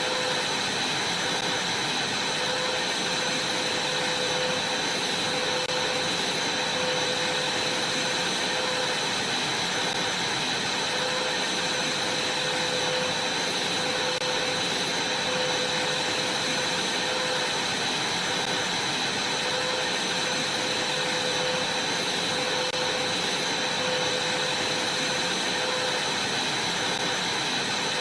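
Vacuum cleaner running steadily, a constant rushing noise with a high motor whine, on a trampoline mat.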